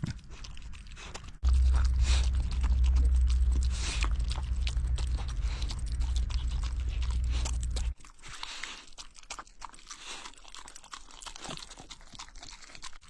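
A pet eating rice mixed with cured pork ribs from a bowl, with wet chewing and repeated crunching of rib bits. A loud steady low rumble comes in suddenly about a second in and cuts off abruptly about two thirds of the way through.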